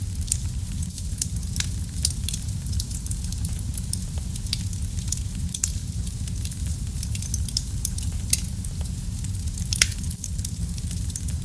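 Wood fire burning in a fireplace: a steady low rush of flame with frequent sharp crackles and pops from the burning wood, two of them louder in the second half.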